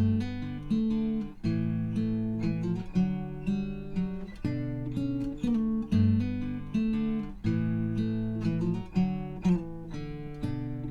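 Background music: acoustic guitar playing plucked notes and chords in a steady, repeating pattern.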